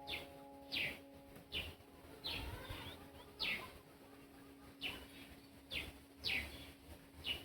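A bird calling repeatedly outdoors: a string of short, quick chirps that each drop in pitch, roughly one a second.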